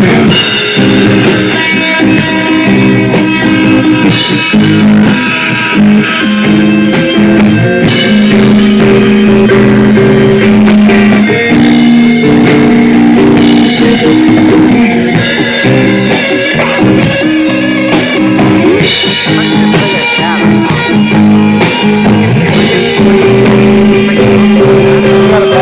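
Loud live heavy rock band playing: distorted guitars holding sustained chords over a pounding drum kit.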